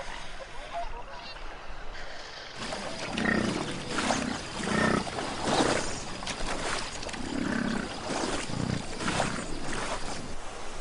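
Wild animals giving a series of short, rough calls, starting about two and a half seconds in and repeating every half second to second until near the end.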